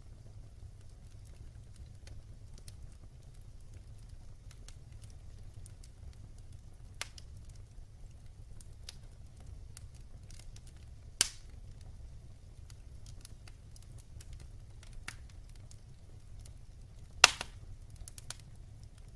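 Wood fire burning in a fireplace: a low steady rumble with scattered small crackles, and two sharp loud pops, one a little past the middle and a louder one near the end.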